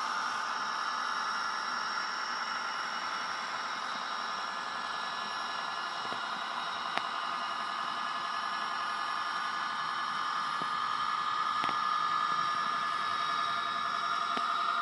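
N gauge model locomotive running with a long wagon rake: a steady electric motor whine with several high pitched tones over the rumble of wheels on track. A few faint clicks come through, and the sound grows a little louder near the end.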